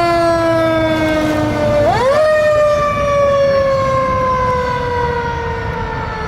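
Fire truck siren wailing: a slowly falling tone that sweeps quickly back up about two seconds in, then falls slowly again. A low rumble runs underneath.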